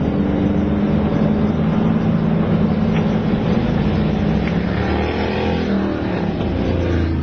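Motorcycle engine running under way, a steady engine note whose pitch dips and rises again about five seconds in as the throttle changes.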